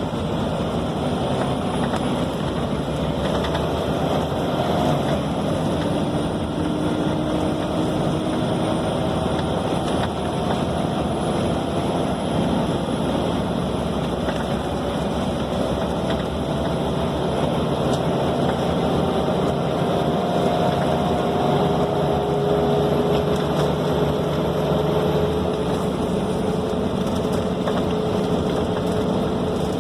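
Scania K270 city bus heard from inside the cabin while driving: a steady mix of engine and road noise, with faint tones that climb slowly over several seconds as the bus gathers speed.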